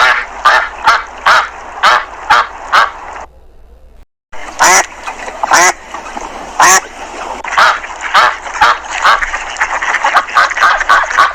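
Ducks quacking in a run of short, repeated calls. The sound cuts out for a moment about four seconds in, then another run of quacks starts and comes faster near the end.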